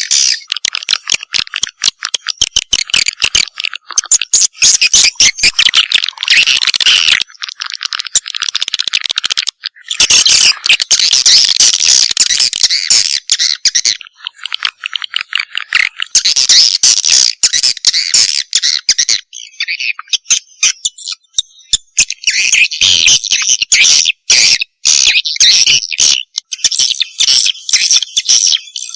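Edible-nest swiftlet calls: a dense, rapid chattering of high chirps and clicks from many birds, with a few short breaks. This is a recorded lure call ('suara panggil') of the kind played to attract swiftlets to a nesting house.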